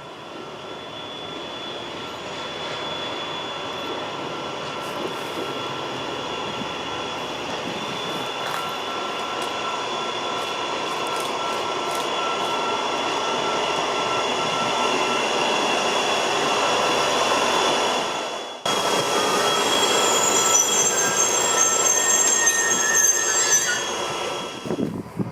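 A passenger train rolls past with its wheels squealing on the rails, the sound growing steadily louder. After an abrupt cut a little past two-thirds of the way in, sharper, higher-pitched squeals continue.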